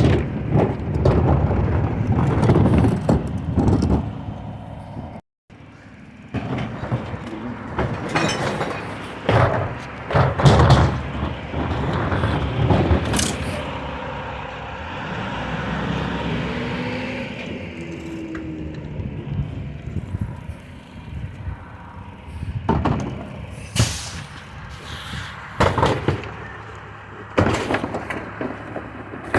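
Recycling collection truck at work: its engine running, with repeated loud clanks and bangs as it handles bins and its load.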